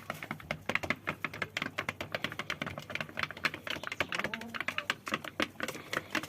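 A growing chicken pecking at its feed quickly: rapid, irregular taps of its beak, several a second.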